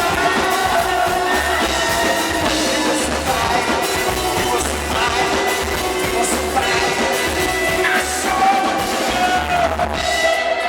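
Live band playing a rock song loud, with a steady low beat and sustained instrument lines and no clear lead vocal.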